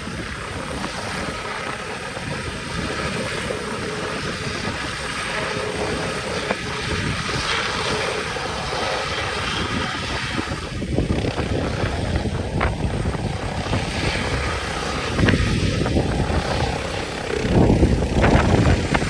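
Medical helicopter's rotor and turbine engines running steadily, swelling louder twice near the end.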